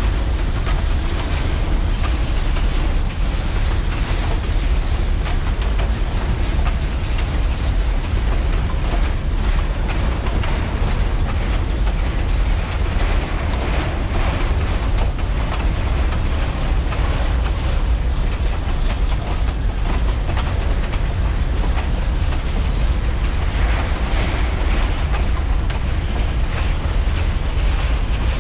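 A train rolling past close by: a steady, even rumble of wheels on rails with fine clicking throughout.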